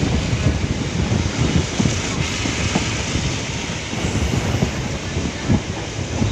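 Suburban electric local train in motion: a steady rumble of wheels on the track with irregular knocks, and rushing air.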